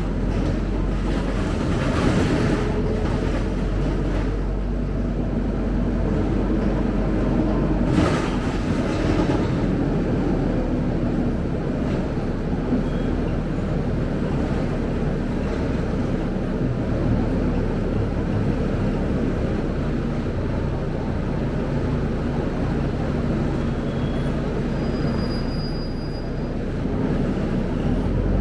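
Scania K270UB city bus on the move, heard as a steady low rumble of engine and road noise, with one sharp knock about eight seconds in.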